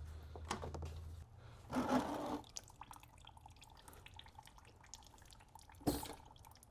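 Workshop handling noises as the engine comes out: a low hum that stops about a second in, a brief rush of noise around two seconds, faint drips and light clinks, then a single sharp knock near the end.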